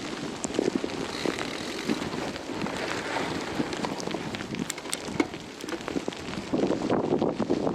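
Blizzard wind buffeting an action camera's microphone during a fat bike ride on a snowy trail, with scattered sharp ticks throughout. The wind noise grows louder near the end.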